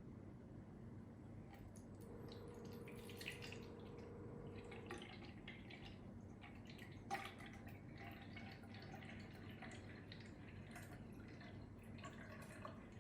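Faint water dripping, with scattered light clicks and taps.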